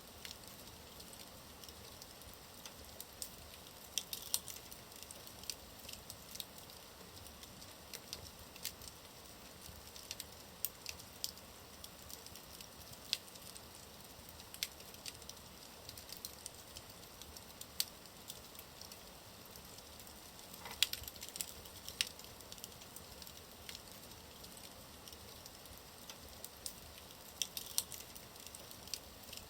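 Wood fire burning in a fireplace: a low steady hiss with scattered sharp crackles and pops, a small cluster of louder pops about two thirds of the way through.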